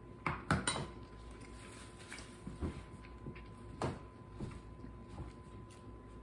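A man chewing a mouthful of oily sardine with his mouth closed: scattered wet clicks and smacks, loudest just under a second in and again about three and four seconds in.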